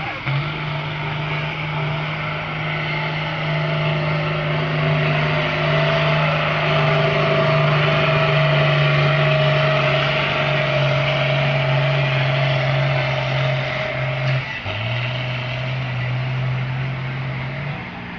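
Pulling tractor's engine running hard at a high, steady pitch under load, growing louder toward the middle. Its pitch drops suddenly about fourteen seconds in, then steps back up near the end.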